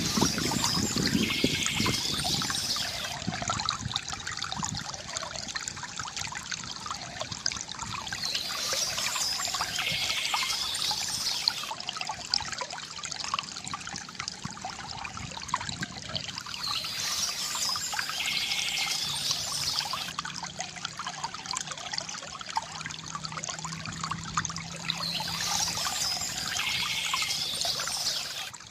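Water trickling and gurgling from a bamboo fountain, a steady flow that swells and eases about every eight seconds.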